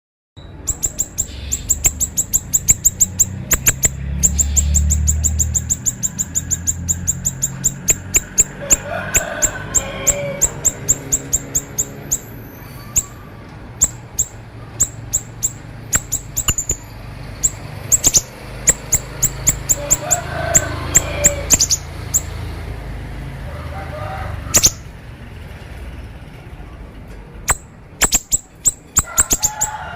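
Siri-siri songbird singing in rapid, stuttering trains of sharp, very high chips, fast "konslet"-style song of the kind played as a tutor recording for caged songbirds. A few lower warbling phrases come in twice, over a low rumble.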